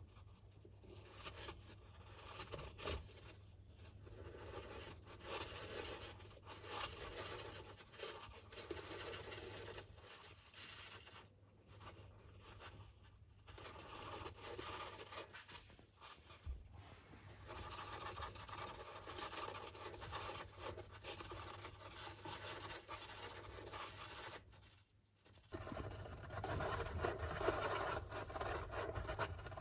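Golden hamster digging and scratching in its bathing sand: a faint, continuous scraping and scratching that dips briefly about 25 seconds in, then carries on a little louder.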